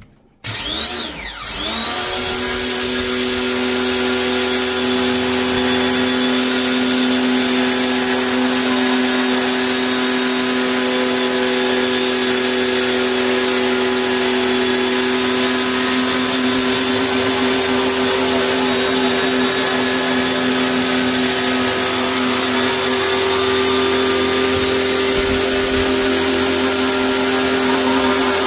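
Electric motor of cleaning equipment spinning up over about two seconds, then running steadily at a constant pitch with a hiss of air or water.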